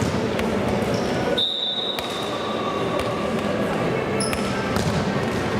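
Futsal players' voices and ball thuds echoing in a sports hall. About a second and a half in, a high steady tone comes in and lasts over a second, with shorter high tones at other points.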